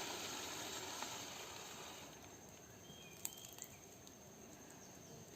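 Faint outdoor background hiss, a little louder in the first two seconds and then fading, with a single sharp click about three seconds in.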